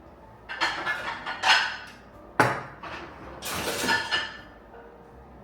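Kitchenware being handled: dishes and pots clattering, with a sharp knock about two and a half seconds in.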